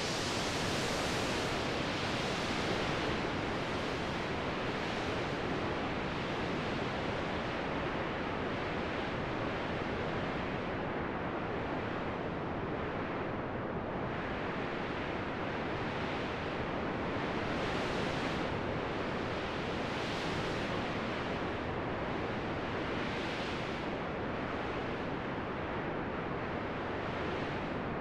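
Wind blowing steadily, its hiss swelling and fading every few seconds as it gusts.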